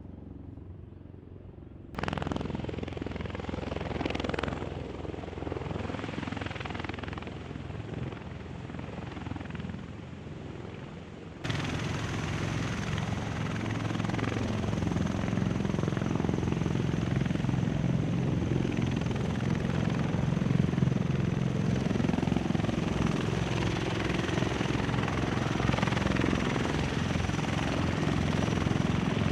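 Military rotorcraft running, with a rapid beating from the rotor blades. The sound jumps suddenly louder about two seconds in and again about eleven seconds in. After the second jump it is loud and steady.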